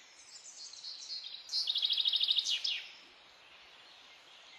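A small bird singing: faint high chirps, then a rapid trill of about a dozen short high notes in a little over a second, about halfway through.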